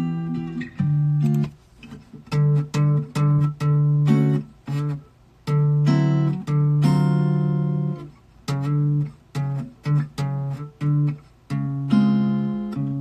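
Acoustic guitar played in short strummed and plucked chord phrases that stop and start again several times.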